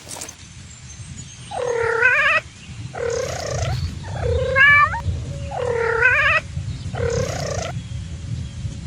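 Domestic cat meowing five times, each meow a drawn-out call of under a second, bending in pitch.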